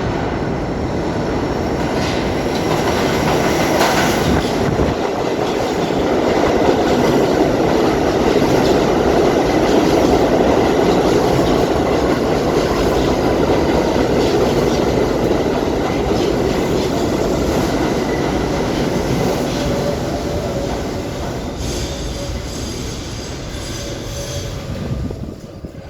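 R32 subway train running through the station, its wheels clattering and rumbling on the rails; the noise builds to a peak about ten seconds in, then slowly eases off, with high-pitched wheel or brake squealing near the end.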